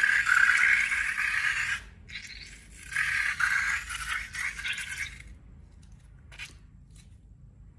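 A scraping, rattling sound in two bouts, the second stopping about five seconds in, followed by a couple of faint clicks.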